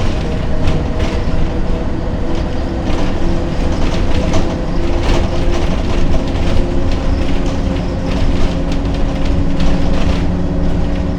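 Ikarus 280 articulated bus under way, its diesel engine running steadily while the body rattles and knocks irregularly over the road.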